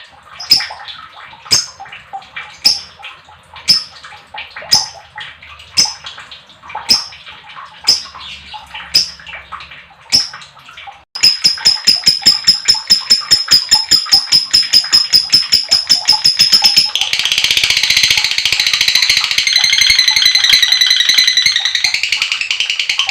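Lovebird calling: sharp single high chirps about once a second over a hissing background. About eleven seconds in there is a sudden switch to a fast run of repeated high notes, which about six seconds later becomes a dense, continuous chatter: the long "ngekek" trill.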